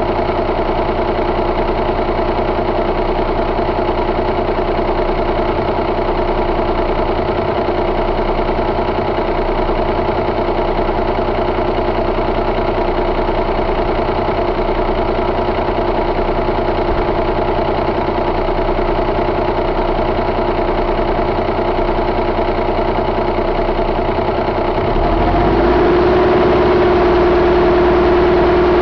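Cummins ISX inline-six diesel engine idling steadily, then speeding up near the end and holding at a higher, steady speed.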